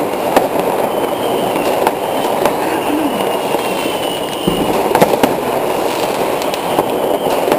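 New Year's fireworks all around: a dense, continuous crackle of many firecrackers and rockets going off, with sharp bangs every so often and a faint high whistle in the middle.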